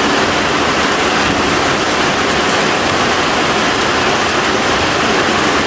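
Heavy tropical downpour, a steady loud hiss of rain falling on the corrugated metal roof overhead and the yard around it.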